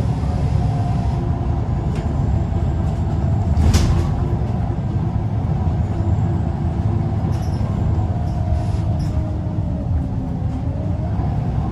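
Scania L94UB bus's five-cylinder diesel engine working hard, a steady low rumble with a droning tone whose pitch falls and then climbs again about ten seconds in. A sharp knock comes about four seconds in.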